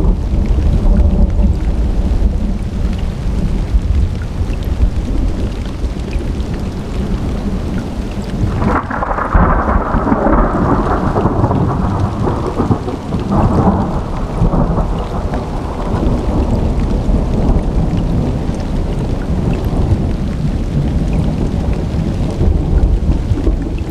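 Thunderstorm: steady rain with continuous low rolling thunder, and a sharper thunderclap about nine seconds in that rumbles and fades over the next several seconds.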